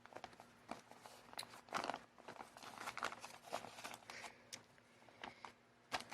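Faint handling noises of a vacuum cleaner's full dust bag and dirty filter being dealt with: scattered clicks and light knocks with rustling and crinkling between them, and no motor running.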